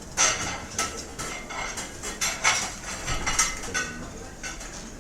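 Dishes and cutlery clattering: a run of sharp clinks of plates and silverware, busiest in the first three and a half seconds, over a steady murmur of restaurant background noise.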